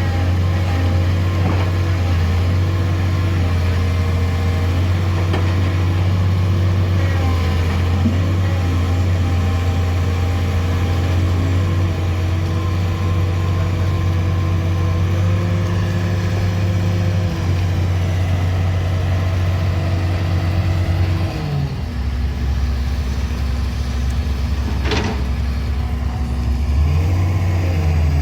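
Heavy vehicle engine running at a steady speed close by, its revs dropping about 21 seconds in and rising again near the end. A short sharp sound comes about 25 seconds in.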